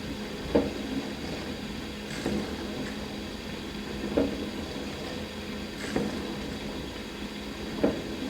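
Dishwasher running through its wash cycle: a steady hum and water noise, with a louder knock or splash recurring about every two seconds.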